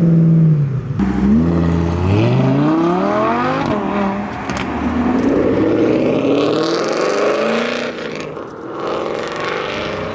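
Modified performance car accelerating hard, its engine revs climbing with a gear change about four seconds in, then rising again before easing off near the end.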